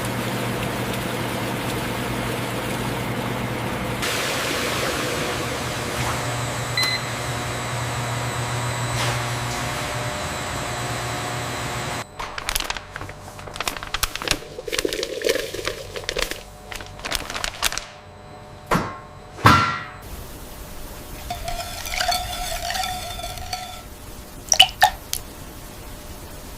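Factory machinery: a steady mechanical hum for about twelve seconds, then it cuts off and gives way to irregular clicks, knocks and clatter.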